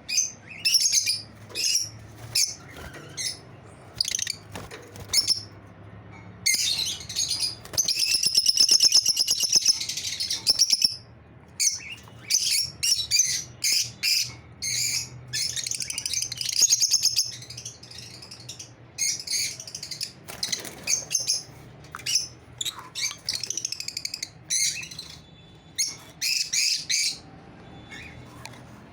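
Lovebirds chirping in rapid, short, high-pitched calls, with a longer stretch of continuous chattering about seven to eleven seconds in.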